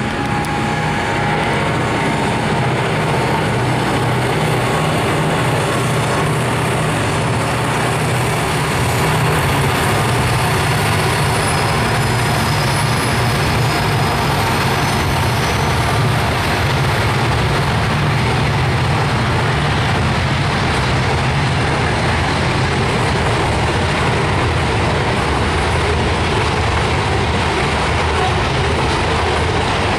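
Freight train with EMD diesel locomotives passing, a loud, steady heavy rumble.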